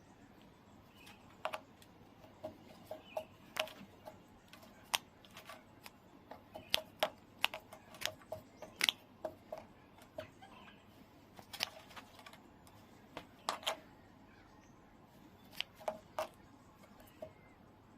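Kookaburra making a string of short, sharp clicks at an irregular pace, bunched most closely through the middle.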